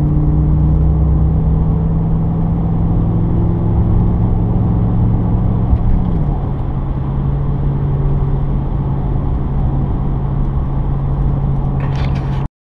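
Chevrolet 5.3L V8 running through a Corsa dB cat-back exhaust at steady engine speed, a constant low drone that eases slightly lower in pitch about halfway through. A brief rustle comes just before the sound cuts off abruptly near the end.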